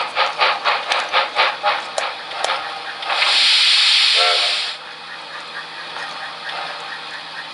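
Sound-equipped model steam locomotive chuffing about three beats a second and slowing to a stop. Then comes a loud burst of steam hiss lasting about a second and a half.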